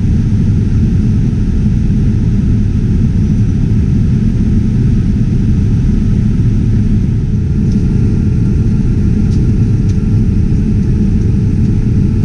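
Steady low rumble of a Boeing 787-9's cabin noise in flight, with a faint steady hum joining about halfway through and a few light clicks near the end.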